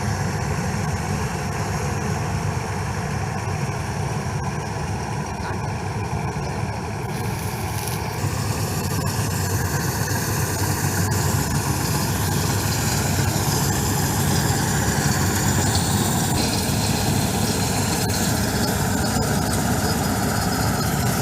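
Combine harvester's diesel engine running steadily under load, growing slightly louder from about eight seconds in.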